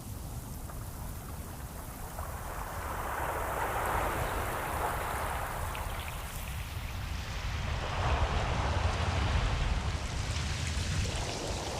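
Ocean waves washing in over a constant low rumble of surf, two slow swells of hiss, the second one louder, about 4 and 9 seconds in.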